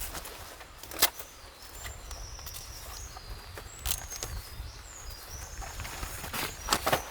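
Small birds singing short, high whistled phrases, some gliding in pitch. Over them runs a low rumble, with several sharp clicks and knocks: the loudest about a second in and a cluster near the end.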